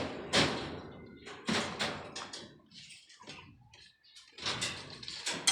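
A run of irregular knocks and bangs, hard objects struck or dropped, several sharp hits in the first two and a half seconds and more near the end, each fading quickly.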